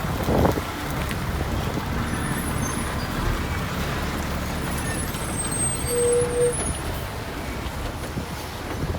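Heavy diesel earthmoving machinery running steadily, with a short steady tone about six seconds in and a few knocks near the start.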